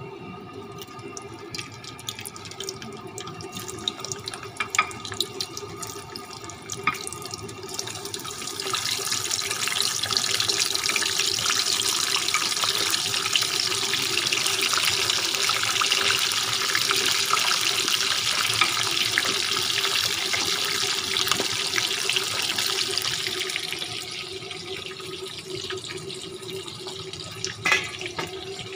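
Chicken pieces sizzling as they fry in hot oil in a pan on a gas burner. The sizzle swells about eight seconds in as the pieces go into the oil, stays loud, and eases off near the end. A few sharp clinks against the pan, and a steady low hum underneath.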